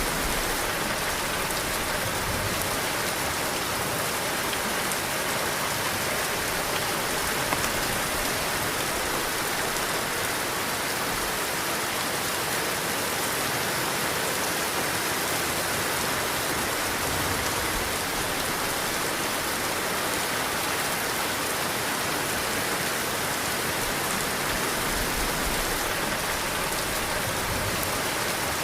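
Heavy rain pouring steadily, a dense, even hiss of drops on surfaces, with a single sharp drip or tap about seven seconds in.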